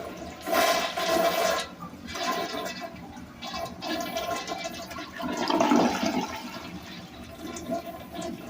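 A 2000 Crane plumbing fixture flushing: a loud rush of water starts about half a second in, surges again a little past the middle, then trails off.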